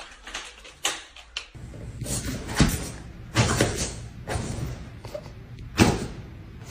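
A series of knocks and thumps, about five, spaced irregularly, with the loudest near the end.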